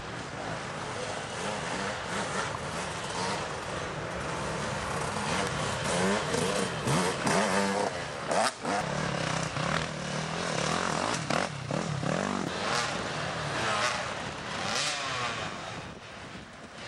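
Dirt bike engines racing, revving up and easing off again and again as the bikes go round the track.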